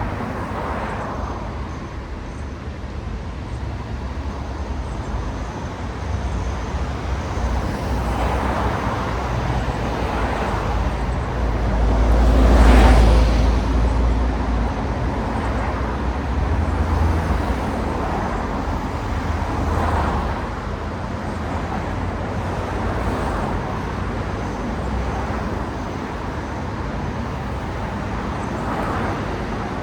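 Road traffic: cars passing one after another, each swelling and fading. The loudest pass is about twelve seconds in, with a deep rumble.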